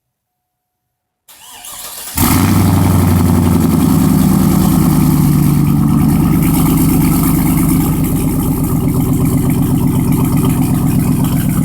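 A 2002 Chevy Suburban 1500's 5.3-litre V8 is cold-started through dual straight pipes with no catalytic converters and 12-inch Cherry Bomb glasspacks. The starter cranks for about a second, then the engine catches about two seconds in and settles into a loud, steady idle.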